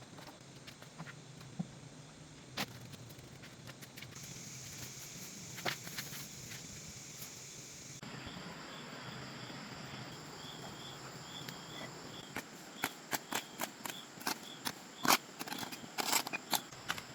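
Outdoor rural background with insects buzzing and a short chirp repeating about one and a half times a second, under scattered light clicks and knocks that come thick and fast over the last few seconds.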